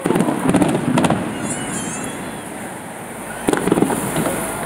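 Aerial fireworks bursting in a rapid cluster of bangs and crackles, with a brief high wavering whistle after it. A second cluster of bangs comes about three and a half seconds in.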